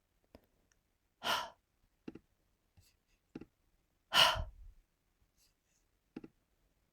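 Two breathy vocal exhales, like sighs, about three seconds apart, with a few faint short clicks between them.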